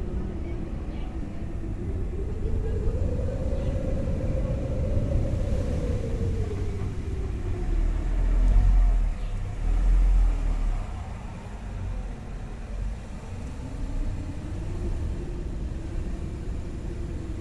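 Wind blowing through a snowy forest with a low rumble and a moaning tone that slowly rises and falls in pitch. The gusts swell loudest about halfway through.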